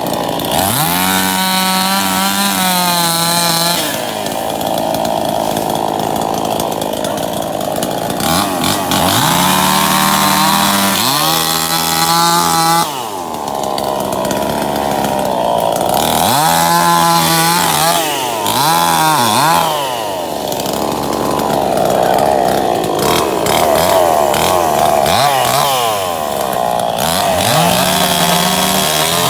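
Tractor engine revving hard, its pitch climbing and dropping back again and again.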